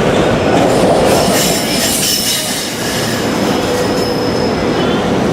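Commuter train passing close by at speed: a loud, steady rush of wheels on rail with thin high wheel-squeal tones on top.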